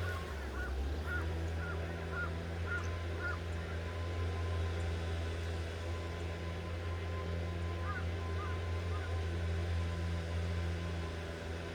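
A bird calling in a run of short, rising-and-falling calls, about two a second, over the first few seconds, with a few more around eight seconds in. Under it runs a steady low engine drone.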